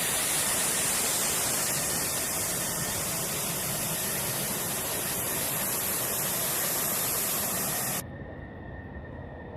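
Steady rushing hiss of a jet engine running, heavy in the high end. About eight seconds in it cuts off abruptly to a quieter, duller steady hum with a faint high tone.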